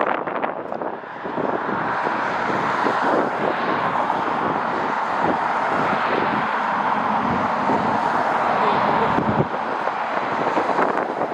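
Jet airliner's engines passing with a steady rushing roar for several seconds, over gusty wind buffeting the microphone.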